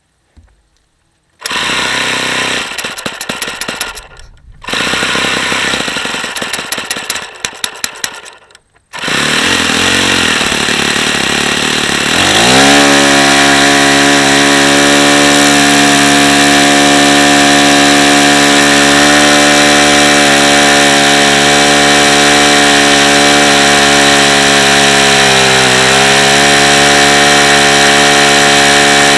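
Saito FA-45 four-stroke glow model engine: two rough, uneven bursts that cut off suddenly, then it runs continuously, and about twelve seconds in the pitch rises as it opens up to a steady high-rpm run, with a brief dip in speed near the end. The engine has badly worn bearings and is tired and worn out, as its owner judges.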